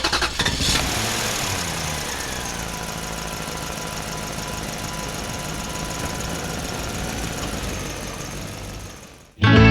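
Motorcycle engine running, its revs falling over the first few seconds and then holding steady, before fading out near the end.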